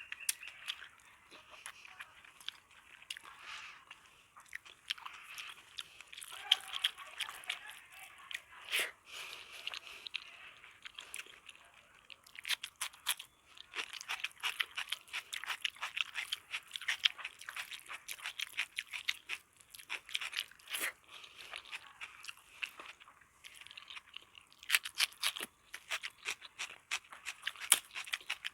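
Close-up chewing of crisp, crunchy food, in runs of rapid sharp crunches with quieter chewing between them; one loud crunch comes about nine seconds in, and the busiest crunching falls in the second half.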